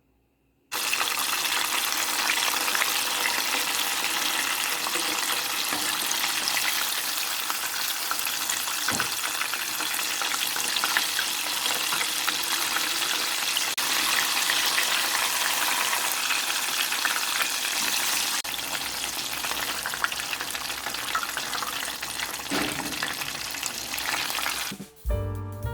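Battered chicken legs deep-frying in hot cooking oil: a steady, dense crackling sizzle that starts suddenly about a second in.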